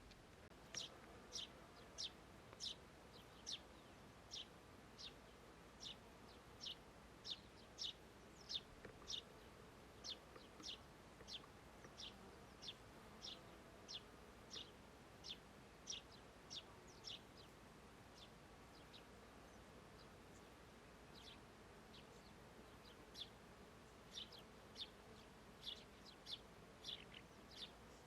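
A small bird repeating short, high chirps, roughly two a second, falling silent for a few seconds about two-thirds of the way through and then resuming. Faint meadow background.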